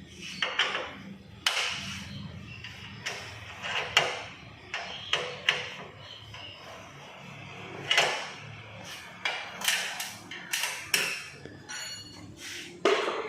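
Irregular sharp knocks and clanks of hand tools on the car's front body metal as it is worked and dismantled, well over a dozen hits spaced unevenly, over a steady low hum.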